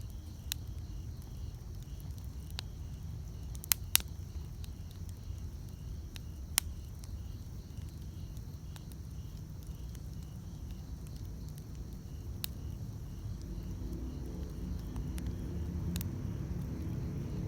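Wood campfire crackling, with a few sharp, widely spaced pops over the low steady rumble of the burning fire. Insects chirp faintly in an even pulsing rhythm. A low hum swells over the last few seconds.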